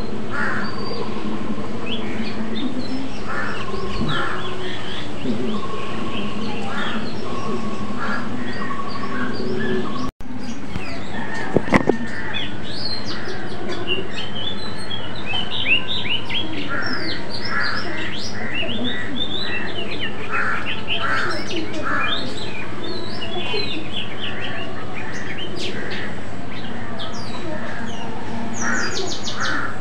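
Many birds chirping, with short rising and falling whistled calls. The sound drops out briefly about ten seconds in, followed by a few sharp clicks.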